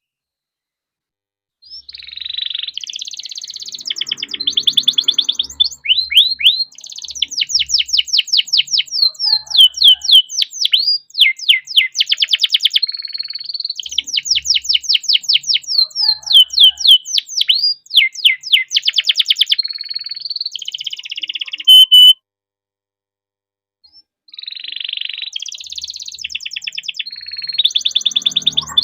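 Domestic canary singing a long, loud rolling song: fast trills of repeated notes and runs of quick downward-sweeping notes, one phrase after another. It breaks off briefly about three quarters of the way through, then starts again.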